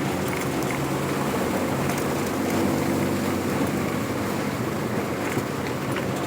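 A vehicle engine running steadily while driving, with road and wind noise.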